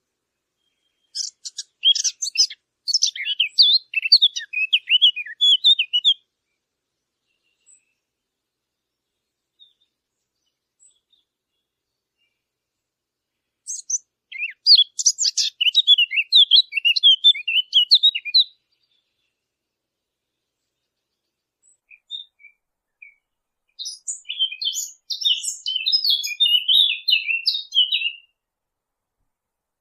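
A small songbird, the one hunters call the fig bird, sings three phrases of fast, twittering warble. Each phrase lasts about five seconds, with pauses of several seconds between them.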